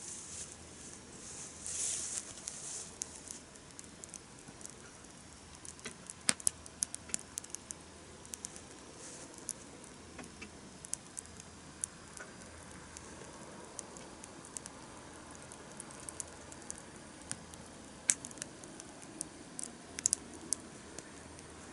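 Wood campfire crackling, with irregular sharp pops and snaps throughout, the loudest about six and eighteen seconds in, and a short hiss about two seconds in.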